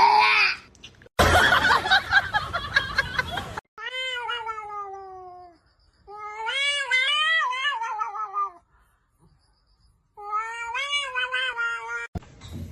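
A cat yowling in three long, drawn-out calls whose pitch wavers and falls away, after a couple of seconds of loud noise.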